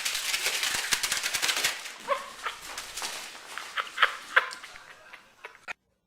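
A dense, rapid clattering for the first two seconds, then a dog giving several short barks. The sound cuts off abruptly near the end.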